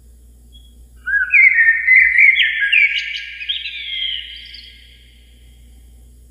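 A songbird singing one phrase of quick, gliding whistled notes, about three seconds long, starting about a second in and trailing off.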